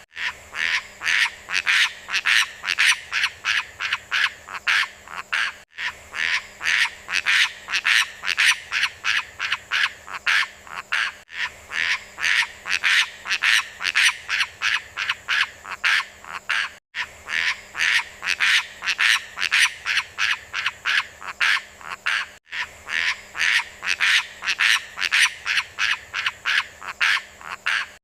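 A beo lumut bird giving rapid repeated calls, about three or four a second. It is a recording looped about every five and a half seconds, with a short break at each repeat.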